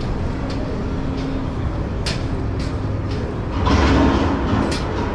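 Busy city street traffic: a steady low rumble of vehicles with scattered sharp clicks, swelling louder about three and a half seconds in as something passes close.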